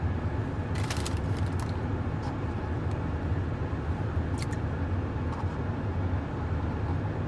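A truck's engine running steadily, heard from inside the cab as a low rumble, with a few short clicks about a second in and again after four seconds.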